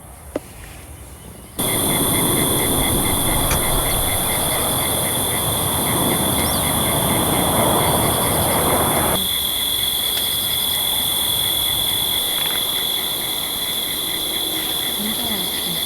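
Steady insect chorus of crickets and similar insects: a high continuous buzz, a steady high tone and a fast pulsing trill. Under it, a rushing breeze noise starts suddenly about a second and a half in and cuts off about nine seconds in.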